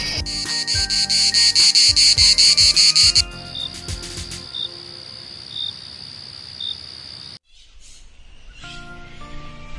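Insect stridulation: first a loud pulsing buzz, about four pulses a second, from a grasshopper, then a cricket's steady high trill that cuts off after about four seconds. Soft background music runs underneath.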